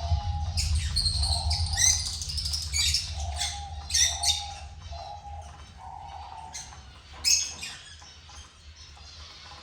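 Gouldian finches chirping and calling in short, quick notes, busiest in the first five seconds, with one loud call about seven seconds in, over a low steady hum.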